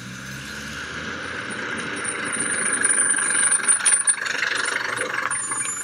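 Recorded sound effect of a London taxi's engine running in street traffic, growing louder over the first few seconds.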